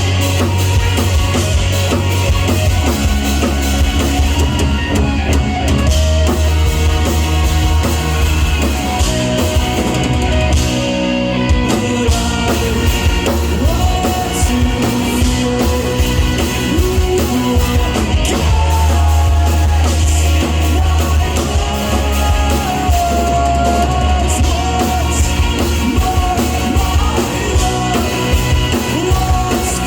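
Rock band playing live: drum kit, bass and guitar, with a sung vocal line over the top.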